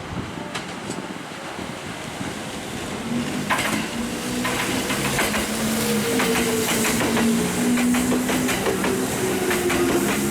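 Kintetsu electric train running into the station, growing louder from about three seconds in, its wheels clicking over rail joints and its motors whining in a tone that slowly falls in pitch.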